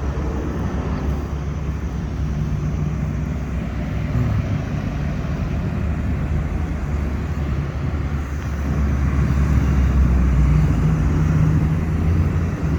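Car and truck engines running at low speed, a steady drone that swells louder from about eight seconds in and eases off just before the end.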